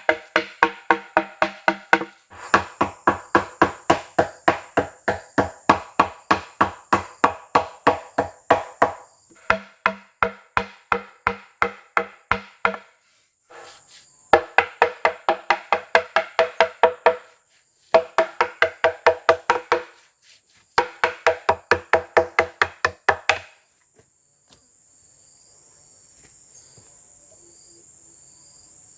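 Rapid, evenly paced knocks of a tool striking wood, about three a second, in several runs with short pauses, each knock ringing with a hollow pitch. Insects whine steadily throughout and are heard alone after the knocking stops near the end.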